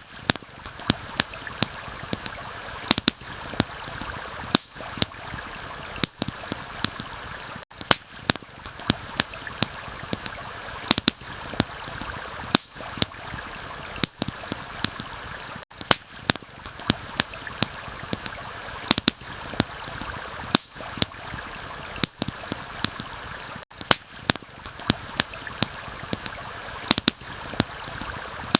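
Campfire crackling with frequent sharp, irregular pops over the steady rush of a stream. The ambience cuts out for an instant about every eight seconds.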